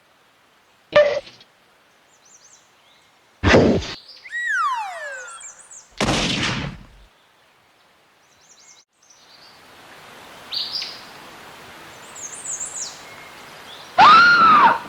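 Cartoon sound effects: a sharp hit about a second in, a heavier hit at three and a half seconds followed by a falling whistle, and another hit at six seconds. Then short bird chirps over a steady outdoor background, and a loud rising-and-falling boing near the end.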